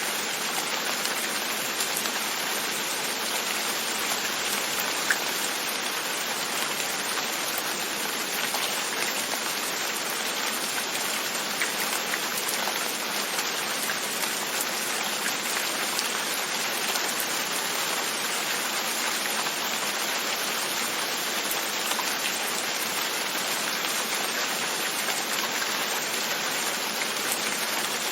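Steady rain pattering on a window, with the odd louder drop tapping out of the even hiss.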